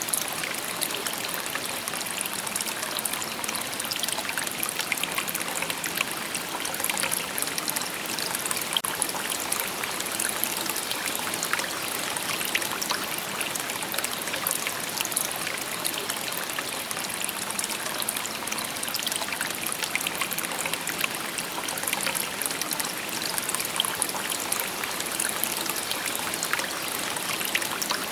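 A shallow river babbling and trickling over stones, a steady continuous rush of water with fine splashes.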